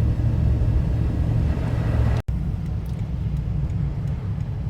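Steady low rumble of a moving car heard from inside the cabin: engine and road noise. It drops out briefly about two seconds in, then carries on slightly quieter.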